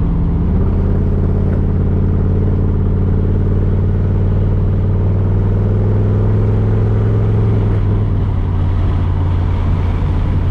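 1982 Camaro's 5.0 V8 running through new mufflers, heard from inside the car while driving. The engine note rises about half a second in and climbs slowly as the car pulls, then drops about three-quarters of the way through as the throttle eases.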